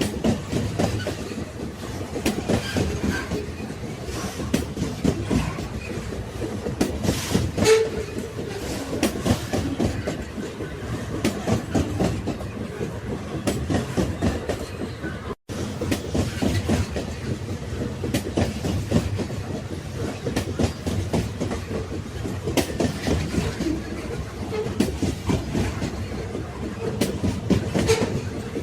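Railway cars rolling along the track, their wheels and bodies rattling and clacking steadily on the rails. The sound cuts out for an instant about halfway through.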